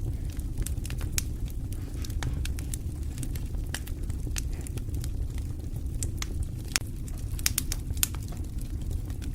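Wood fire crackling in a fireplace: irregular sharp pops and snaps, a few louder ones around the middle, over a steady low rumble of the flames.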